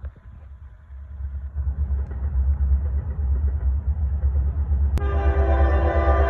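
Approaching Norfolk Southern freight train's diesel locomotives, heard as a low rumble that grows louder. About five seconds in, the lead locomotive's air horn starts suddenly and is held as a chord of several tones.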